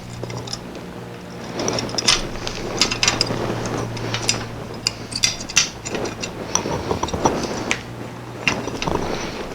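Irregular clicks, taps and light knocks of hand work on a neon sign as tube sections are taken out, over a steady low hum.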